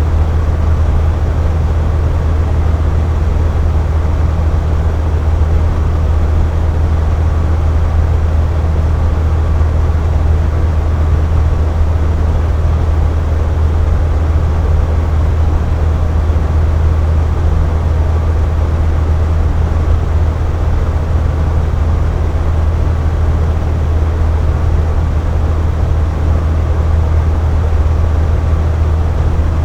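Air conditioner running steadily: a deep, constant hum with an even rush of air and a faint steady tone above it.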